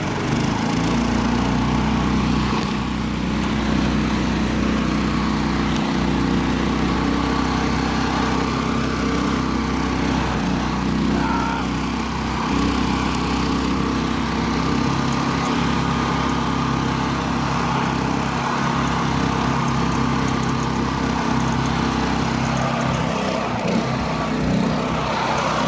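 Small engine of a homemade karakat running steadily under load as the vehicle drives through snow in the high range.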